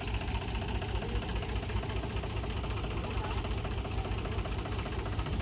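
Sonalika DI 47 RX tractor's diesel engine running steadily with a rapid low chugging.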